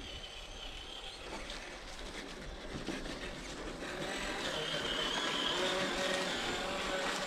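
Electric RC crawler truck driving through snow and dried brush: a steady motor-and-gear whine over rustling and crunching, getting louder about halfway through.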